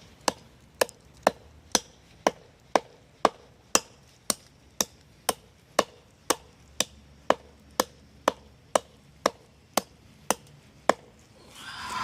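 Hand hatchet chopping into very hard, dense log wood: a steady run of sharp strikes, about two a second, that stops near the end. The wood is so hard that the blade barely bites.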